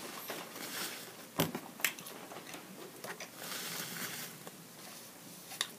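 A person chewing a mouthful of steak burrito close to the microphone, with a few sharp clicks, two about a second and a half in and one near the end, and a soft rustle around the middle.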